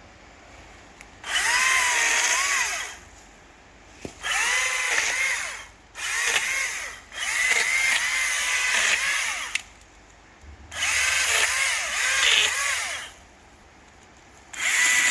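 ECHO DCS-2500T 56-volt battery top-handle chainsaw cutting through a tree in about six bursts of a second or two each. Its electric motor whines, and the pitch dips and recovers as the chain bites into the wood. The saw is near silent between bursts.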